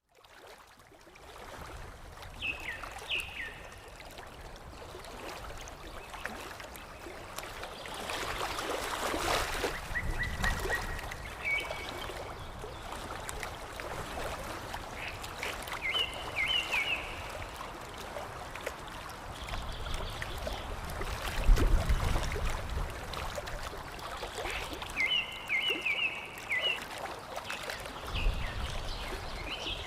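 Water lapping and trickling steadily, fading in at the start, with short bursts of bird chirps every few seconds. A low rumble comes in briefly about two-thirds of the way through.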